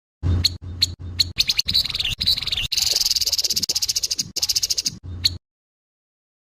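Grey-headed babbler giving harsh calls: a few sharp chips, then a fast rattling chatter lasting about four seconds that cuts off abruptly.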